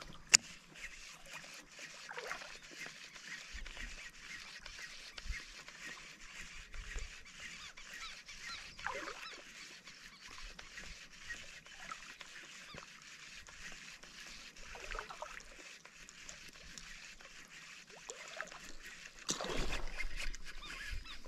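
A bird calling several times with short sweeping calls, over a run of faint regular ticks. A louder rush of noise comes in near the end.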